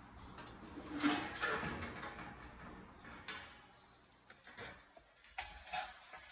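Handling noises: a scraping, rustling sound about a second in, then a few scattered sharp clicks and knocks, as of parts or tools being moved about and set down.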